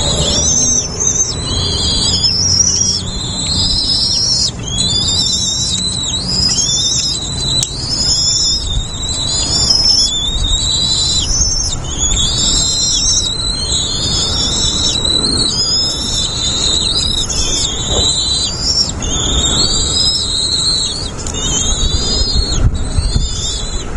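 Nestling birds begging: many rapid, high-pitched chirps repeating and overlapping without a break, over a low rumble.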